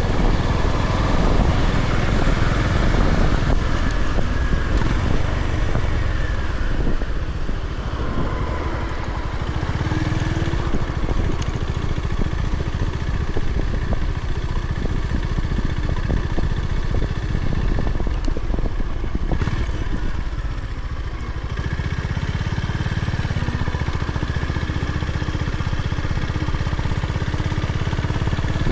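Honda GB350's air-cooled single-cylinder engine running as the motorcycle is ridden, the sound easing off briefly twice, about seven seconds in and again about twenty-one seconds in.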